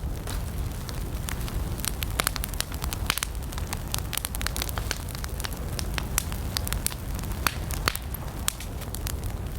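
Wood campfire burning, crackling and popping in many sharp, irregular snaps over a steady low rumble.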